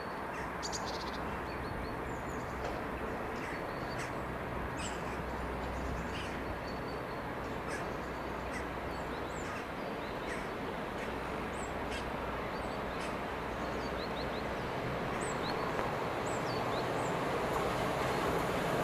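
EP09 electric locomotive hauling passenger coaches as it approaches over the points, a steady rumble that grows louder toward the end. Birds chirp in short high notes throughout.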